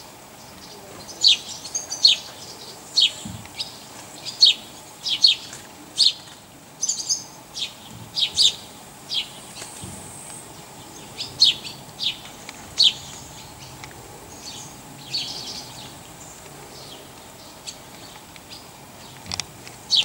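Small birds chirping: short, sharp, high chirps that drop in pitch, coming in irregular runs. They are thick through the first two-thirds and sparser near the end.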